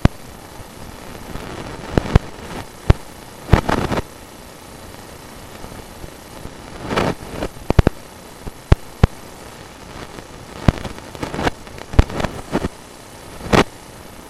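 Sewer inspection camera being pushed through a drain pipe: sharp, irregular knocks and clatters with a few short scraping bursts over a steady hiss.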